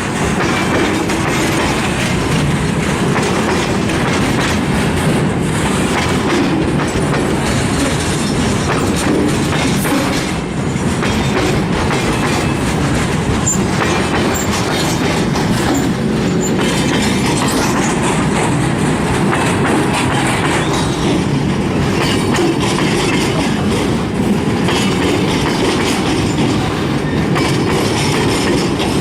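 Loaded broad-gauge freight wagons rolling steadily over a level crossing, their wheels clattering over worn, damaged rails.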